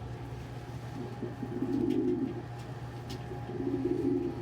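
Domestic pigeons cooing: two low coos, one starting about a second in and another near the end, over a faint steady hum.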